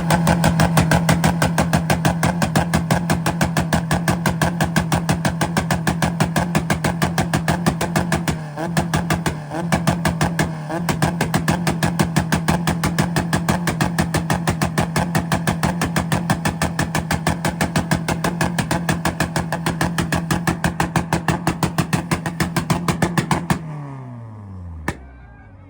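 Honda Civic's four-cylinder engine held on its two-step launch limiter: it sits at a fixed high rpm with a rapid, even stutter of limiter cuts for over twenty seconds, dipping briefly three times around the middle. Near the end the throttle is released and the revs fall away, followed by a single sharp pop.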